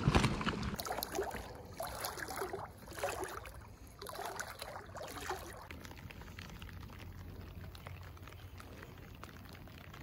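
Rain falling on a lake surface, a faint steady patter of fine drops. During the first five seconds or so, louder irregular water splashes and trickles close by.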